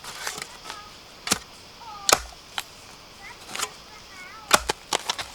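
Irregular sharp chops and knocks of a blade striking something, several of them in quick succession near the end, with a few faint short chirps between the strokes.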